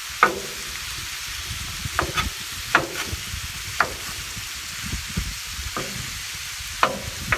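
Ground beef frying on a Blackstone flat-top griddle with a steady sizzle. Sharp metal clacks of a spatula on the griddle come at irregular intervals, about six of them, as the meat is stirred and broken up.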